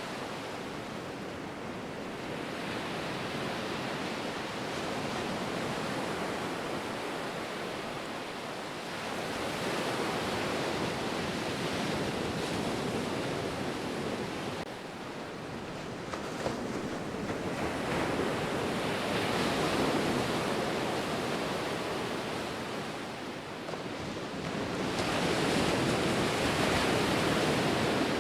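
Ocean surf: waves washing in and breaking as a continuous rush of noise that swells and falls back in slow surges several seconds apart, loudest near the end.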